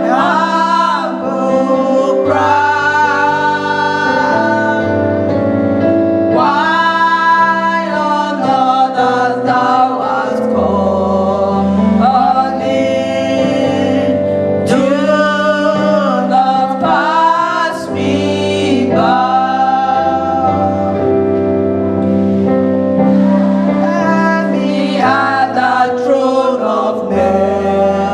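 Church choir singing a gospel hymn with instrumental accompaniment holding steady low notes under the voices.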